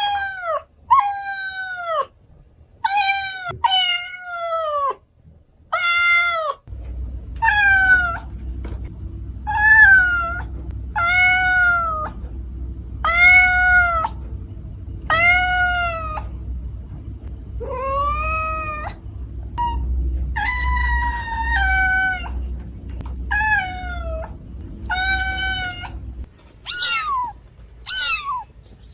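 A domestic cat meowing over and over, about one meow every one to two seconds, each call rising and then falling in pitch. A low steady hum runs beneath the meows from about a quarter of the way in until near the end.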